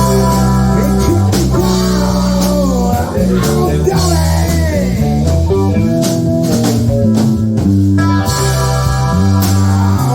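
Live band playing an instrumental passage: a guitar line with bending, sliding notes over steady bass notes and drums.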